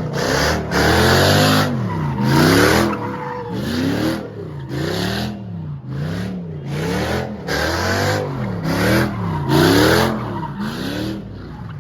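A car doing donuts: the engine revs up and drops back again and again, about once every second or so, with tires squealing and skidding on each surge.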